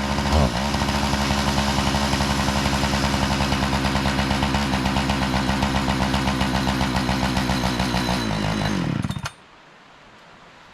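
Two-stroke chainsaw engine running at full throttle under load, ripping lengthwise through a log, with a quick dip in revs just after the start. About nine seconds in, the engine winds down and stops with the cut nearly finished.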